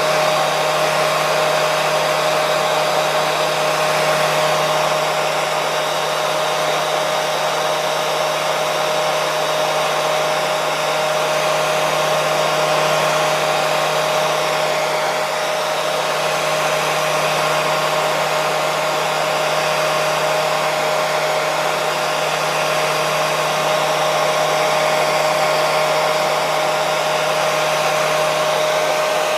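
Electric hair dryer running steadily: an even rush of blown air with a constant motor whine, unchanging throughout.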